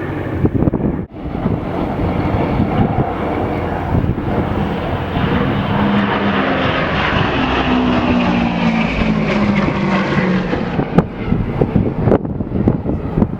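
Lockheed P-38 Lightning's twin Allison V-12 engines in a flyby pass, building to loudest in the middle and fading near the end, the engine tone dropping in pitch as the plane goes by. Wind buffets the microphone.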